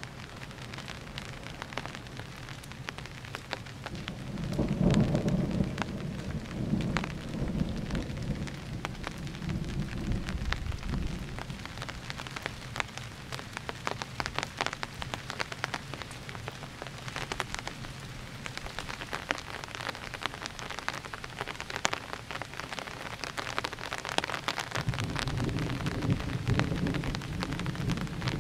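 Thunderstorm: steady rain pattering on surfaces with many close drop hits, and rolling thunder rumbling about four seconds in for several seconds, then again near the end.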